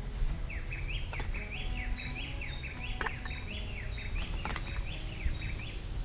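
A songbird singing a quick, continuous series of short whistled notes, each sweeping up and down. Underneath is a low rumble of wind on the microphone, and a few light clicks of tableware being handled.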